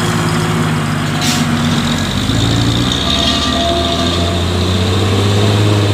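Heavy truck engine running steadily under load. Its note drops and changes about two seconds in, then holds. A brief sharp click or knock sounds about a second in.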